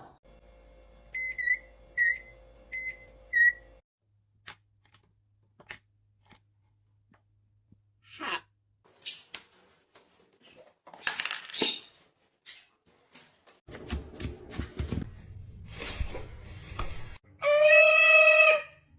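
Parrot calls across several short clips: four brief high chirps near the start, scattered short squawks and clicks in the middle, and a loud held squawk near the end.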